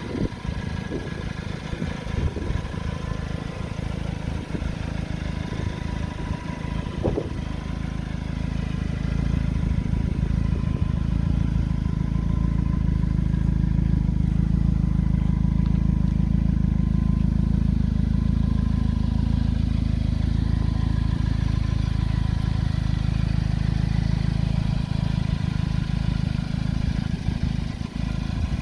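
2015 Morgan Plus 4's four-cylinder engine idling steadily, growing louder about a third of the way in and easing back a little near the end.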